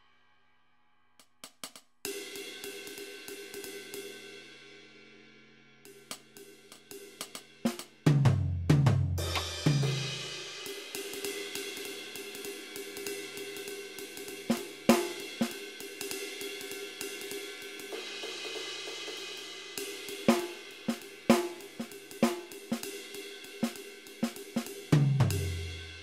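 Electronic drum sounds played on a Roland SPD-SX Pro sampling pad. From about two seconds in, a sustained cymbal-like ringing carries on under quick hi-hat and snare hits, with deep, falling bass-drum hits around eight to ten seconds in and again near the end.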